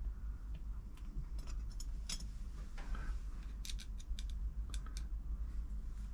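Scattered light clicks and rattles of small screws and hand tools being picked up and handled, over a steady low hum.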